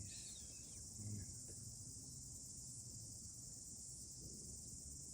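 Steady high-pitched chorus of insects chirring, faint, with a low rumble beneath it.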